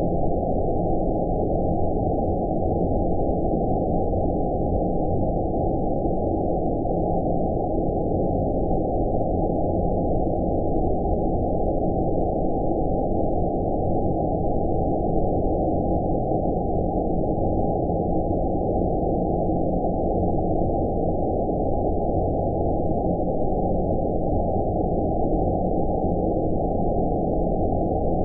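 Steady, unchanging deep noise: a synthetic 'outer space' white-noise track, filtered so that only the low end below about 1 kHz remains, giving a dull, muffled rush with no events in it.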